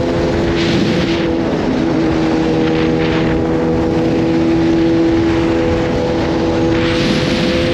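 Kawasaki Z H2's supercharged 998 cc inline-four engine running at a steady, held speed while the bike is ridden, with a few short rushes of hiss over it.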